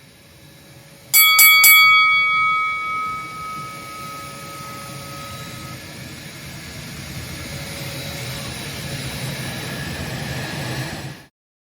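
Three quick bell-like chime strikes, ringing out and fading over a few seconds, followed by a low rushing swell that slowly grows louder and cuts off suddenly near the end.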